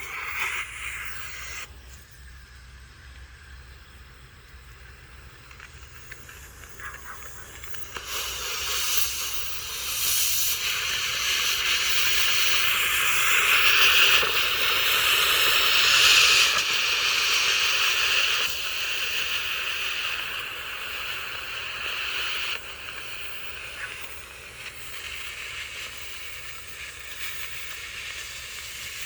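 Green pull-string Shutter Bombs smoke grenade hissing as it burns and pours out smoke. The hiss swells about eight seconds in, is loudest midway, then eases off.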